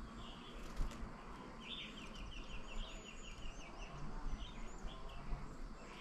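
Small birds calling in open rural ambience: a quick run of about ten repeated chirps from around two to three and a half seconds in, with scattered higher chirps around it. A single sharp click comes just before one second in.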